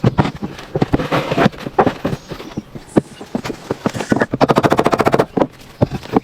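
Irregular knocks and clatters, with a fast, even rattle of many quick strokes lasting about a second, starting about four and a half seconds in.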